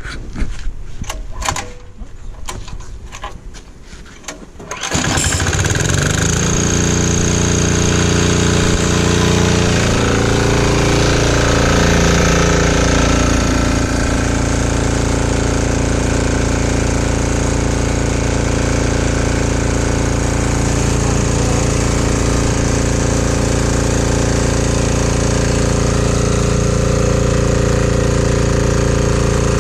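196cc 168F single-cylinder diesel generator engine. A few seconds of slow, spaced knocks are followed about five seconds in by the engine catching and running loud and steady with a diesel clatter. Its pitch wavers for a few seconds before it settles.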